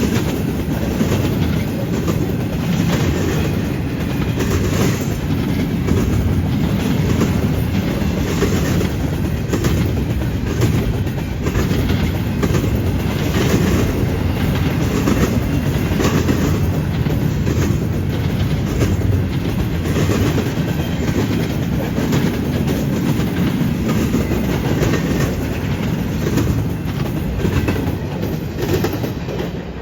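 Freight train cars rolling steadily past: a deep rumble with the clickety-clack of steel wheels over rail joints and the junction switch.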